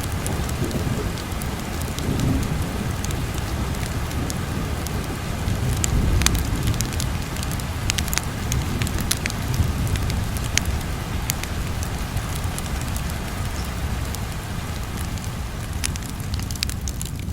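Wood fire crackling with scattered sharp pops over a steady rain hiss and a low rumble.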